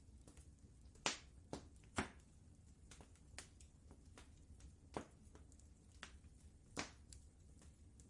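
Wood fire crackling in a fireplace, with irregular pops and snaps, the sharpest about one and two seconds in, over a low steady rumble.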